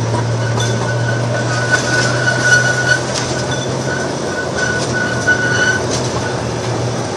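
Small amusement-park train running, heard from an open passenger car: a steady low hum and rumble of the ride, with an on-and-off whine and a few scattered clicks.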